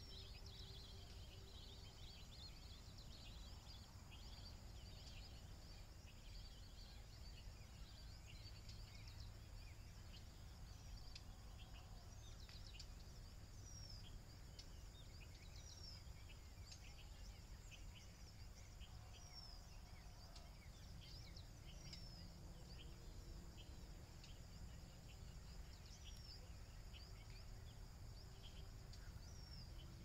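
Faint outdoor birdsong: many small birds chirping and twittering, joined from partway through by a short falling whistle repeated every couple of seconds, over a steady low rumble of background noise.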